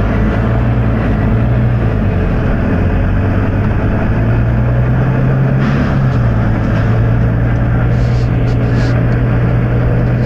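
Volvo B9TL double-decker bus's six-cylinder diesel engine running with a steady low drone that shifts slightly in pitch partway through. A few brief faint hisses from the air system come in about six seconds in and again near the end.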